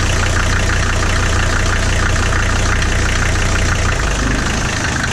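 Mercedes OM617 five-cylinder diesel idling steadily, shortly after a cold start with manual glow plugs; the low drone eases slightly about four seconds in.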